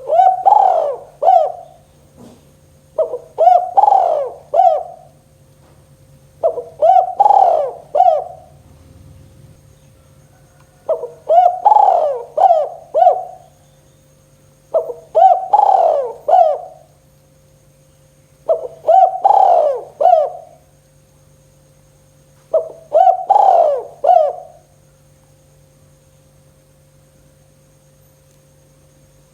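Spotted dove (tekukur) singing its 'kuk 2' song: seven loud cooing phrases of several notes each, about every three to four seconds, stopping a few seconds before the end. A steady low hum runs underneath.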